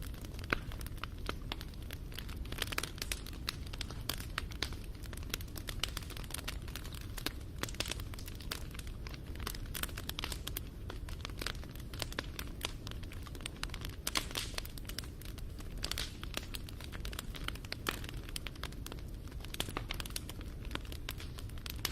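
Wood fire crackling, with many small, irregular sharp pops over a steady low rumble.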